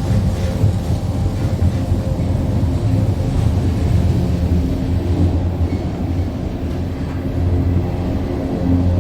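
Steel railway bridge droning from underneath as a train passes overhead: a loud, steady deep hum with higher tones above it, swelling and easing slightly, over the rumble of the train. The drone is set up by the train's constant vibration of the bridge.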